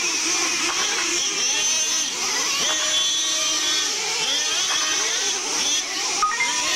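Several nitro RC monster trucks' small two-stroke glow engines racing at once, their buzzing pitches overlapping and rising and falling as each one revs up and backs off.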